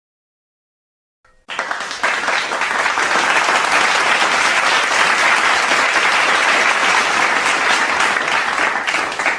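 Crowd applause: many hands clapping together, starting abruptly about a second and a half in after a short silence and holding steady.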